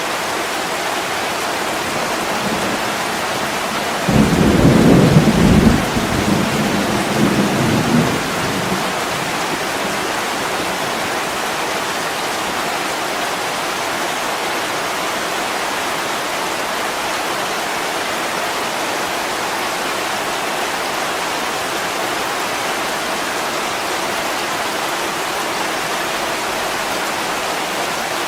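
Heavy rain pouring steadily on a window, with a low roll of thunder about four seconds in that rumbles for about four seconds and fades back into the rain.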